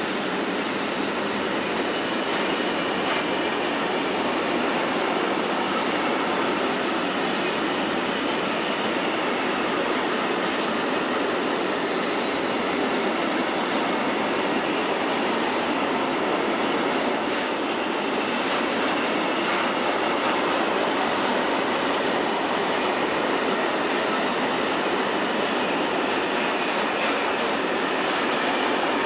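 A train rolling past on the rails at steady speed, its wheels and wagons giving an even, continuous rumble.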